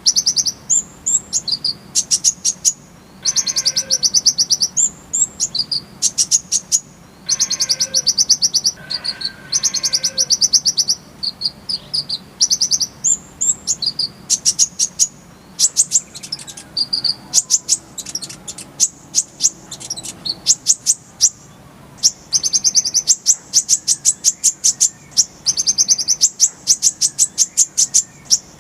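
Olive-backed sunbird (kolibri ninja) singing: fast, high rolling trills of rapidly repeated notes, broken by short pauses and twittering phrases.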